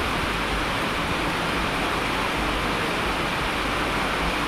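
Steady heavy rain: an even, unbroken rushing hiss with no separate drops or other events standing out.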